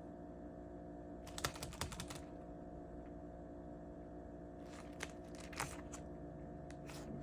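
Faint rustling and light taps of paper bills and envelopes being handled, in two short clusters, over a steady low hum.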